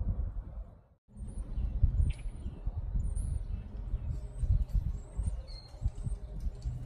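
Small songbirds chirping at a feeder: many short, high chirps and quick whistled notes starting about a second in. Under them runs a louder, uneven low rumble with knocks.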